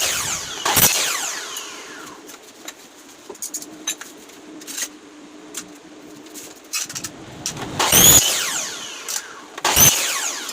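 Hammer blows on metal flight-case hardware: a few loud, sharp metallic strikes that ring out, near the start, just under a second in, about eight seconds in and near the end, with lighter taps and clicks between them.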